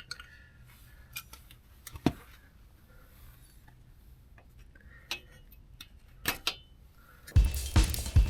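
Scattered light metallic clinks and knocks of hand tools on car suspension parts, a handful of separate strikes several seconds apart. About seven seconds in, background music with a drum beat starts.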